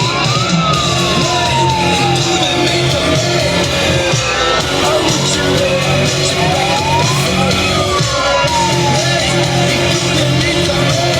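A siren wailing, its pitch climbing and then sliding slowly down, twice, over loud music and a shouting crowd at a noise protest.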